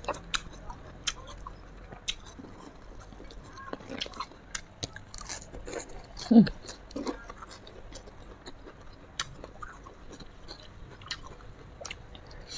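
A person chewing and biting food up close, with many small wet mouth clicks and smacks. About six seconds in comes a brief vocal murmur that slides down in pitch.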